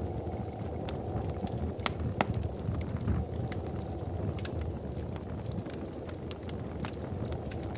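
Wood fire burning in a fireplace: a steady low rumble of flames with scattered sharp crackles and pops, a few louder ones around two and three seconds in.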